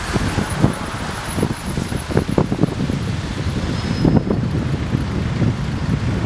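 Strong wind buffeting the microphone: a steady low rumble with irregular gusts.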